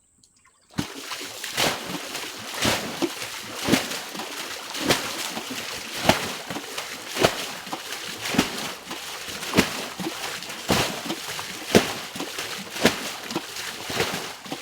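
Water being bailed out by hand, with a splash about once a second over a steady wash of sloshing water. It starts abruptly about a second in.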